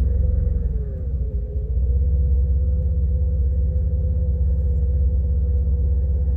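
Jeep Grand Cherokee's 3.7-litre V6 and tyres droning steadily inside the cabin while driving, a deep rumble under a thin whine that wavers in pitch for the first couple of seconds and then holds steady.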